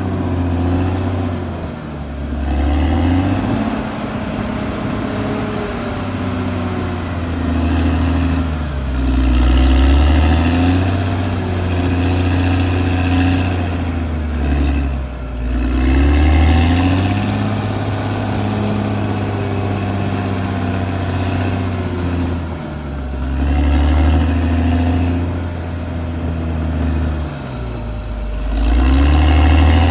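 Caterpillar D6R XL bulldozer's diesel engine running, its note repeatedly dropping and rising again every several seconds as the engine takes and sheds load.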